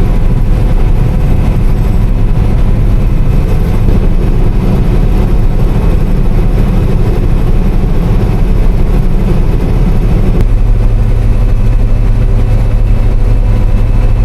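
Combine harvester running steadily under load while harvesting wheat, a loud, even low hum. About ten seconds in, part of the low hum drops slightly.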